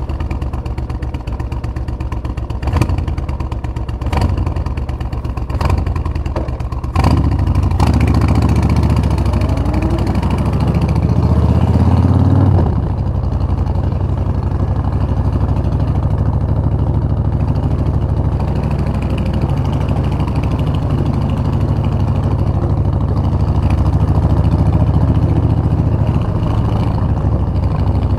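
Suzuki VS1400 Intruder's V-twin engine idling, with a few sharp knocks over the first seven seconds. It then pulls away, rising in pitch for about four seconds, drops sharply on a gear change about halfway through, and runs on steadily.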